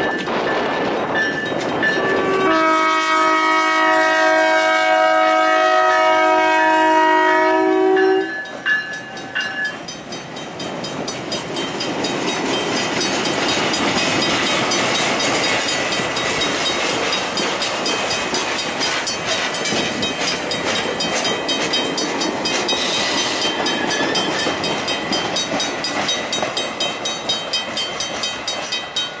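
GMD1 diesel locomotive sounding its multi-note air horn in one long blast of about five seconds, starting a couple of seconds in. The train of Budd rail diesel cars and a caboose then rolls past with a steady rumble and wheel clatter on the rails, while the grade-crossing bell rings steadily, plainest near the end.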